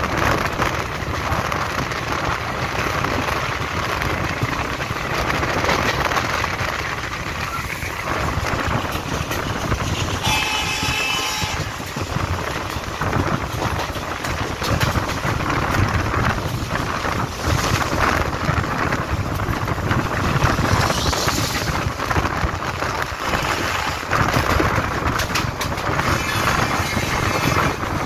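Train running at speed heard from aboard a passenger coach, a steady rumble of wheels on rail with wind on the microphone, beside a passing goods train of blue NMG vans at the start. A brief pitched tone sounds about ten seconds in.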